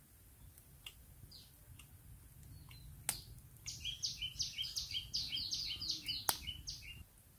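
A bird singing a quick run of about a dozen repeated high falling notes, roughly four a second, for about three seconds, over a low background rumble. Two sharp clicks stand out, one just before the song and one near its end.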